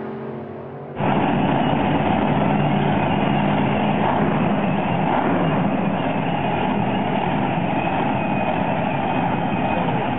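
A pitched engine note fades for about a second, then cuts abruptly to a loud, steady monster truck engine running.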